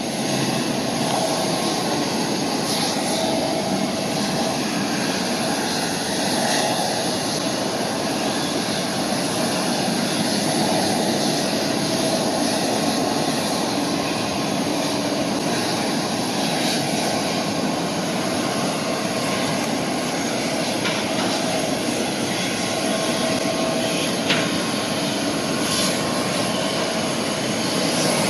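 Jet engines of a Boeing 737-500 taking off, a steady rushing noise with a faint steady whine through it.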